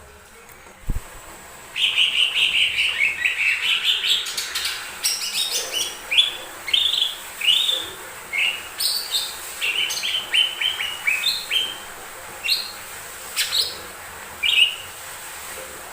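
Cucak ijo mini leafbird singing: a fast run of chattering notes, then a string of separate short notes that fall in pitch, about two a second. A single thump comes just before the song starts.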